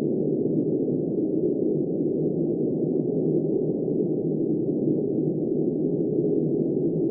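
Blizzard wind howling steadily, a dull, muffled rush with no gusts or breaks.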